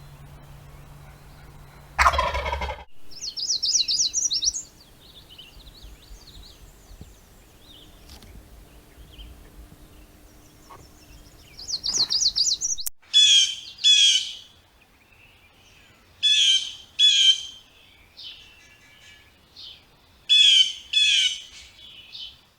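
Recorded bird calls from more than one bird, spliced together: one loud harsh call, then rapid high trills. After a sudden change about halfway through, a songbird gives loud paired high notes, three pairs with faint chirps between them.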